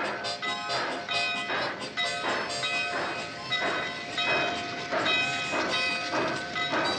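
Steam locomotive chuffing in a steady rhythm, about two chuffs a second, with sustained tones held underneath.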